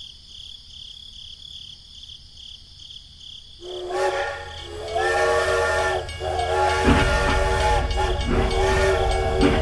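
A steady, pulsing high chirping, like insects. About three and a half seconds in, a multi-tone horn starts sounding a chord in long held blasts with short breaks, and a low rumble joins beneath it about seven seconds in.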